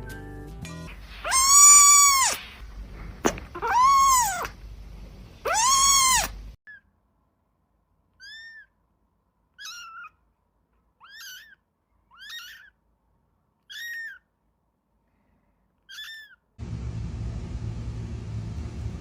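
A cat meowing loudly three times, each call rising and then falling in pitch. This is followed by about seven short, faint, higher-pitched calls spaced a second or two apart. Near the end, a steady rumbling hum comes in.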